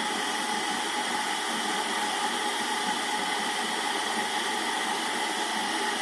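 Water heating toward the boil in an electric water boiler, a steady rushing hiss with faint steady tones: the heater is working again after its blown fuse was replaced.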